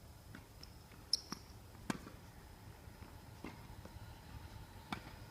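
Tennis ball being hit and bouncing during a rally: a handful of sharp knocks, roughly one every second or so, the loudest about two seconds in.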